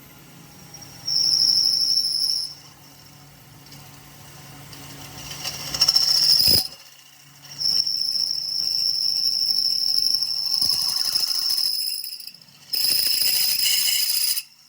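Power tool working metal: a high-pitched whine comes in repeated bursts of one to four seconds over a low motor hum, with short pauses between cuts.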